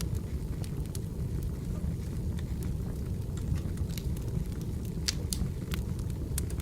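Burning firewood crackling: a steady low rumble of flames with scattered sharp pops and snaps, coming more thickly in the second half.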